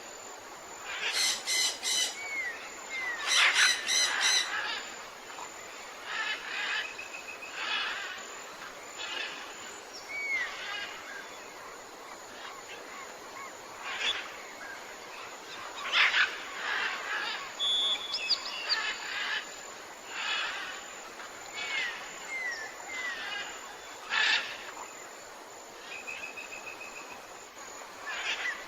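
Tropical forest birdsong with several birds calling: loud calls about a second in, around four seconds, near sixteen seconds and near twenty-four seconds, with short rising whistles between them, over a steady background hiss.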